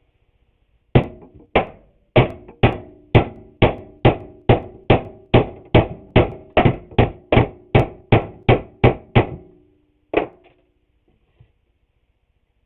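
A hammer knocking on glued wooden trim boards to drive them into line: about twenty steady knocks at two to three a second, each with a short wooden ring, then a pause and one last knock.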